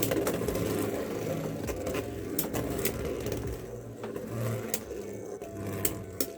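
Beyblade X spinning tops whirring and scraping around a plastic stadium, with sharp clicks as they strike each other and the walls. The sound slowly fades as the tops lose spin.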